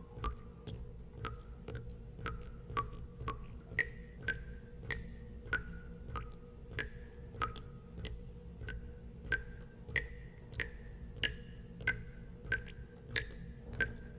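Water drops falling into water, one after another at about two a second. Each is a sharp plink with a short ringing note that changes pitch from drop to drop, over a steady low rumble.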